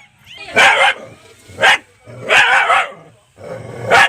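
A dog barking, several short, loud barks a second or so apart.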